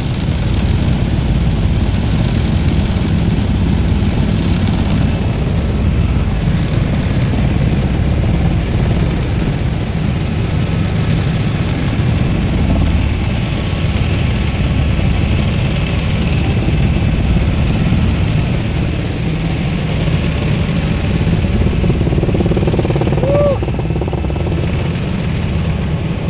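Helicopter engine and rotor running at a steady drone, heard from on board, with a faint steady high whine above it.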